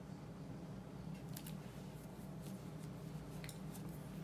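Paintbrush loaded with oil paint stroking on media paper: a few faint, short scratchy swishes over a steady low hum.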